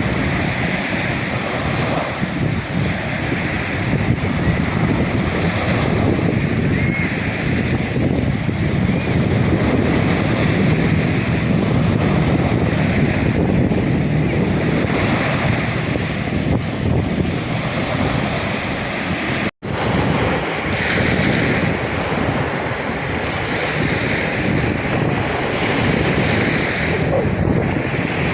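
Storm-driven sea surf breaking on the beach, with strong wind buffeting the microphone in a steady loud rush. The sound cuts out for an instant about two-thirds of the way through.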